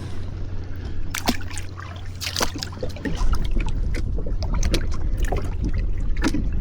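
Water splashing and lapping around a kayak over a steady low rumble, with several sharp knocks or splashes.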